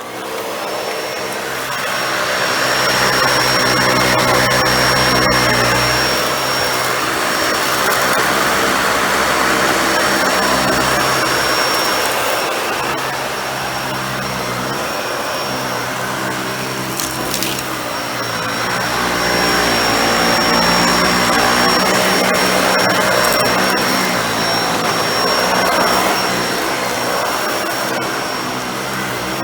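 Dyson Ball Animal 2 upright vacuum running, its suction motor giving a steady high whine, the airflow noise slowly rising and falling every few seconds.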